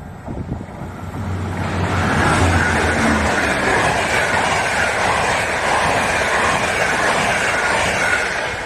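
A train passing close by on the rails. It grows loud over the first two seconds, stays loud, and eases off near the end.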